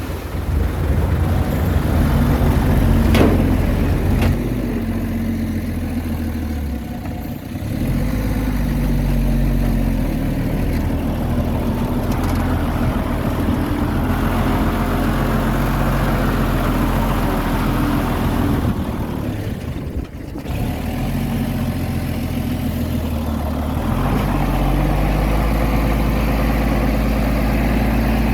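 Diesel engine of a small crawler bulldozer running under load. Its engine note rises and falls several times as it works, dipping briefly about twenty seconds in.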